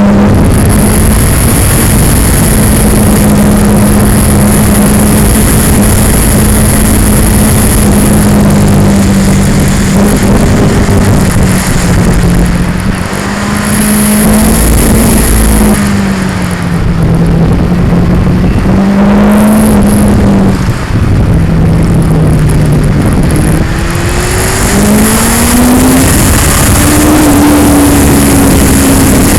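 2002 Yamaha R6's inline-four engine running at road speed, heard through heavy vibration noise on an action-camera mic. The engine note mostly holds steady, dips in the middle as the bike slows, and rises steadily near the end as it accelerates.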